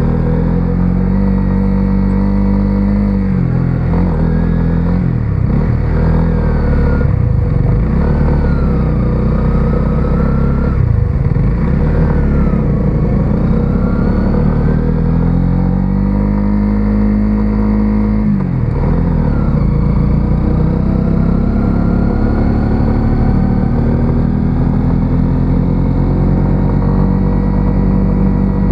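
Single-cylinder 125cc motorcycle engine under way, revving up through the gears: the pitch climbs, drops sharply at each shift several times in the first part, then rises steadily near the end as the bike accelerates.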